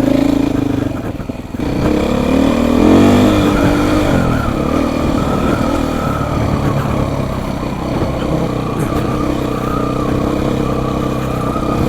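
Beta 480 RR four-stroke single-cylinder dirt bike engine pulling along a trail, revving up and wavering about two to four seconds in, then running at a fairly steady pace.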